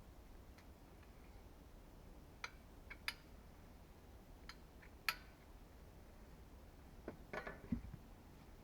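Wood fire crackling quietly, with a few single sharp pops spread out, then a quick cluster of pops and a dull knock near the end.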